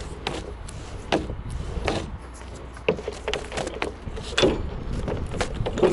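Irregular knocks and clunks of hand-tool work on a structural insulated panel, about one a second, with louder hits near the end.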